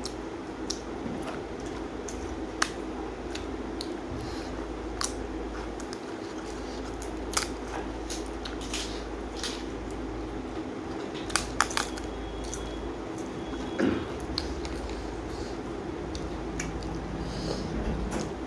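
Someone eating a meal: scattered sharp clicks and crunches of chewing and of food and utensils against a plate, a few standing out louder, over a steady low background hum.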